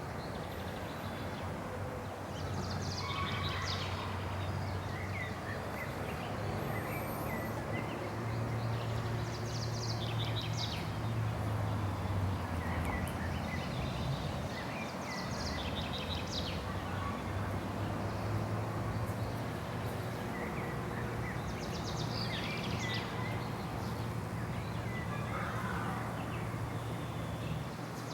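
Wild birds calling and chirping, short scattered calls coming every few seconds, over a steady low hum of background noise.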